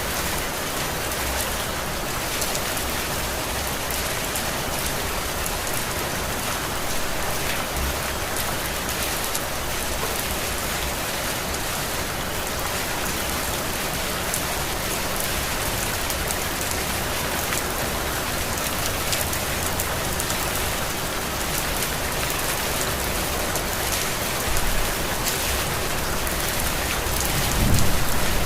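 Heavy rain falling steadily: a dense, even hiss of drops on surfaces. Near the end a low rumble swells up underneath it.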